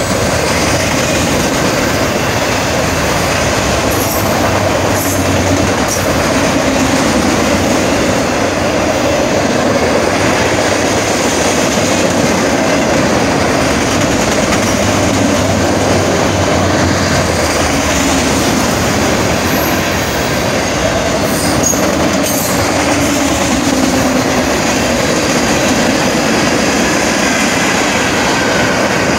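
Freight train cars, mostly enclosed autoracks, rolling past a grade crossing at close range: a loud, steady rumble of steel wheels on the rails.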